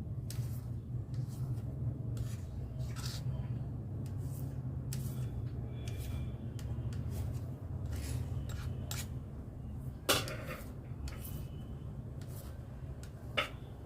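Okra being cut lengthwise into long strips: a blade clicks irregularly as it slices through the pods, with a sharper click about ten seconds in and another near the end. A steady low hum runs underneath.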